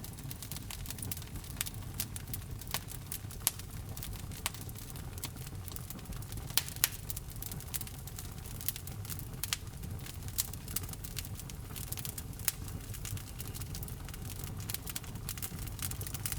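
Wood fire crackling in a fireplace: irregular sharp pops and snaps over a steady low rumble of the flames, with a few louder pops near the middle.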